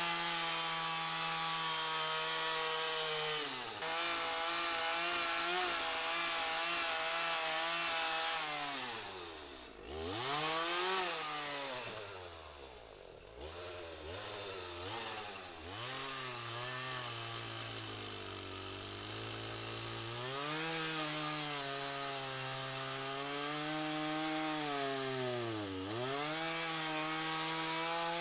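Two-stroke chainsaw running at high revs and cutting through wood. The engine note sags and recovers again and again as the chain loads up in the cut, drops deeply twice around a third of the way in, then runs lower under steady load for a few seconds before climbing back.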